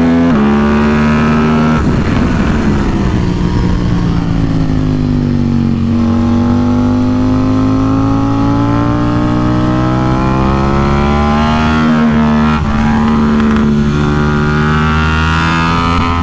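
KTM RC8C's parallel-twin engine at race pace: about two seconds in the pitch falls for several seconds as it slows, then climbs steadily for about six seconds under hard acceleration, drops briefly at a gear change and climbs again.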